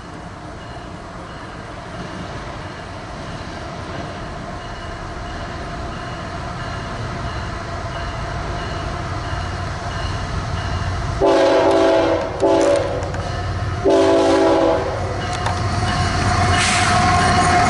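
A diesel locomotive approaches, its rumble growing steadily louder, with a faint bell ringing about twice a second. About eleven seconds in, the locomotive's air horn sounds a long blast, a short one and another long one, and the train carries on running loudly past.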